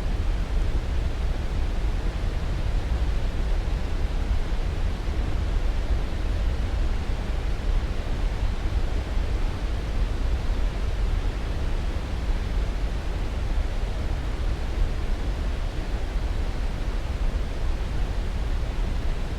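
Steady, unchanging rushing noise from a white-noise sleep track, deep and heavier in the low end, with no breaks or separate sounds.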